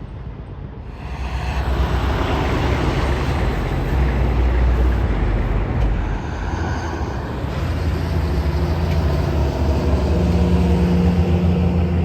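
Interstate highway traffic passing at speed, heavy trucks among it: tyre and engine noise swells about a second in and stays loud, with a low engine drone in the second half.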